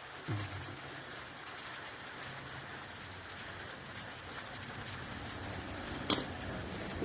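A single sharp metallic clink of a tool or engine part, about six seconds in, over a steady low hum that sets in just after the start with a short falling pitch.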